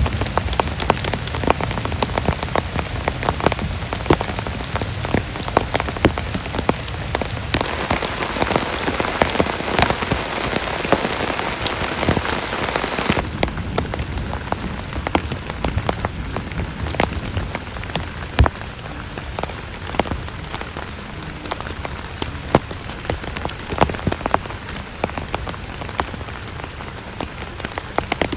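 Heavy rain falling, with many sharp individual drops striking a hard surface close by over a steady hiss. About halfway through, the sound gets thinner and loses its low rumble.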